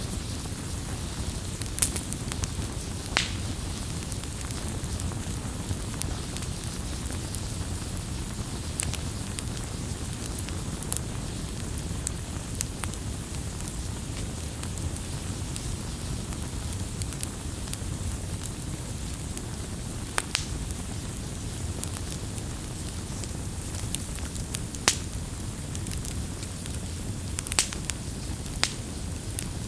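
Campfire burning: a steady low rumble of flames with scattered sharp crackles and pops from the burning wood, irregularly spaced, a dozen or so, a few of them clustered near the end.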